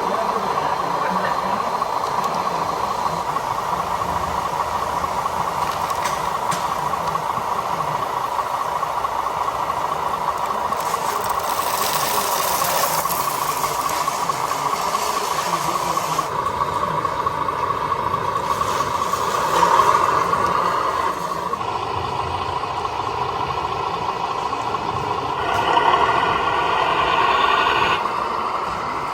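Radio-controlled model vehicles running, their small electric motors and gears giving a steady whine. A hiss comes in about a third of the way through, and the whine swells louder twice near the end.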